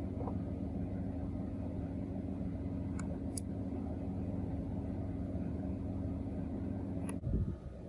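A machine motor running with a steady hum, cutting off abruptly about seven seconds in.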